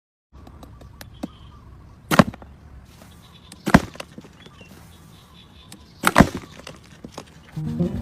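Three loud sharp knocks, about two, four and six seconds in, with a few lighter clicks between them. Music starts near the end.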